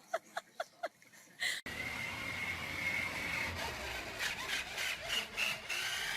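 A dog yipping in quick short whimpering cries, several a second. It cuts off suddenly and is followed by a steady rushing noise with a thin high whine running through it.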